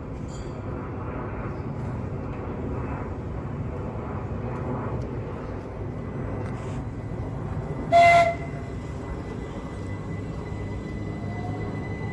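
Electric multiple-unit train running through the station with a steady low rumble, and one short, loud blast of its horn about two thirds of the way through.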